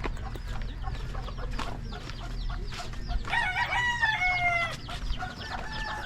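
Rooster crowing once, a long call about three seconds in lasting roughly a second and a half, with chickens clucking around it.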